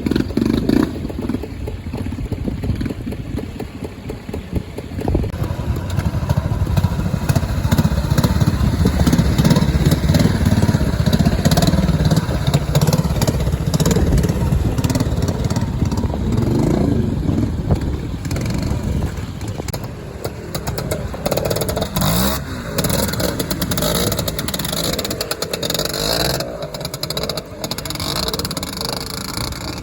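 Classic trials motorcycle engine working through a section at low speed, the revs rising and falling irregularly. It grows louder over the first ten seconds or so and eases off near the end.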